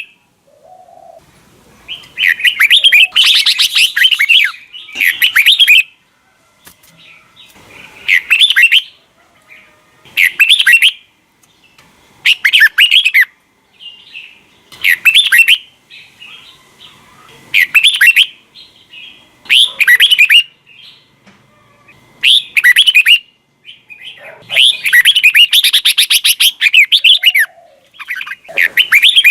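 Red-whiskered bulbul singing loud, chattering song phrases, short bursts about every two seconds with two longer runs of several seconds, one near the start and one near the end.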